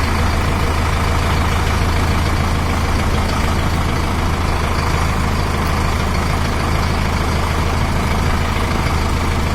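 Tractor's diesel engine running steadily at a low, even idle, with a strong low hum and no changes in speed.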